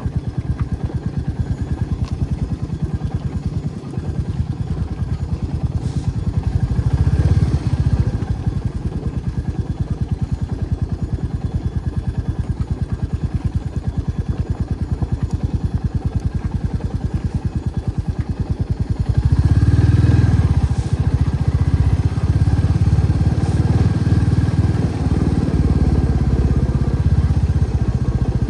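Motorcycle engine running steadily with a fast low pulsing while riding, growing louder about two-thirds of the way through.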